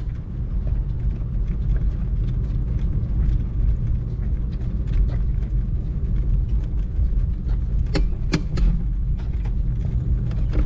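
Loaded hand truck stacked with cases of soda rolling over pavement: a steady low rumble with frequent small clinks and rattles from the load, and two sharper knocks about eight seconds in.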